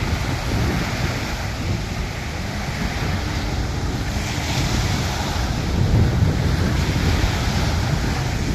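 Surf washing on a beach, with strong wind buffeting the microphone in a steady low rumble; the wash swells about halfway through.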